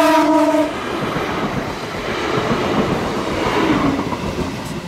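Irish Rail class 22000 diesel multiple unit passing at close range: the end of a single-note horn blast cuts off within the first second, then the train rumbles past on the rails and fades as it pulls away.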